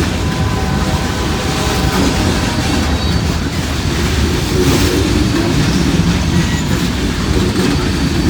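Freight cars of a long train rolling past close by: a steady rumble of wheels on rail with clicks over the rail joints and a thin wheel squeal in the background.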